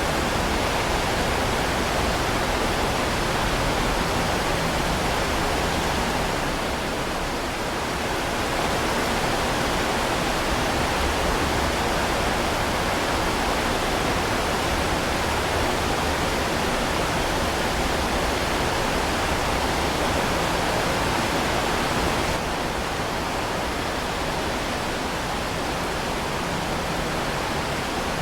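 Heavy rain falling steadily, an even hiss with no separate drops or thunder. It dips briefly about seven seconds in and turns slightly quieter and duller about 22 seconds in.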